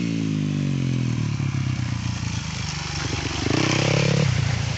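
Vehicle engine driving through a river ford: its pitch falls over the first two seconds as it eases off, then it revs up and gets louder about three and a half seconds in.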